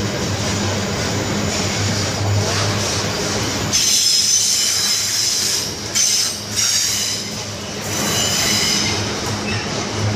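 Container freight train's wagons rolling past with a steady rumble of wheels on rail. From about four seconds in to about eight seconds, high-pitched metallic wheel squeal rises over the rumble.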